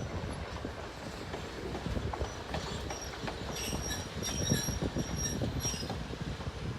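Excursion train cars rolling slowly over the rails: a steady low rumble with wheel and rail-joint clicks, and from about halfway through, a series of short, high-pitched steel wheel squeals.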